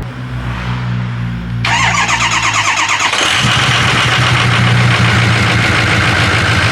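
A vehicle engine being started: the starter cranks briefly, the engine catches about three seconds in and settles into a steady idle.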